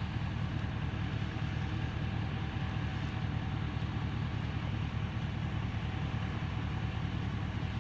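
A vehicle engine idling: a steady, even low hum with no change.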